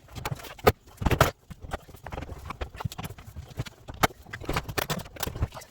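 Irregular knocks, clunks and clicks of front-load washer parts being handled and pulled apart during disassembly, louder about a second in and again near four seconds.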